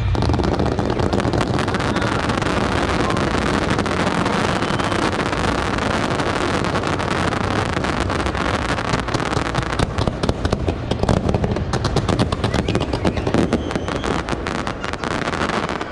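Aerial fireworks display going off in a dense, continuous barrage of bangs and crackling. Over the last few seconds it turns into rapid sharp cracks in quick succession.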